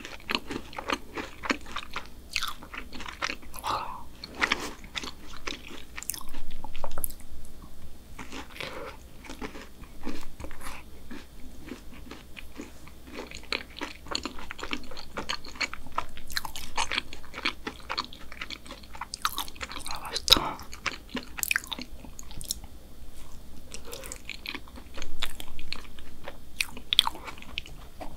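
Close-miked chewing of a chocolate chip brownie topped with black sesame ice cream: wet, irregular mouth clicks and soft bites.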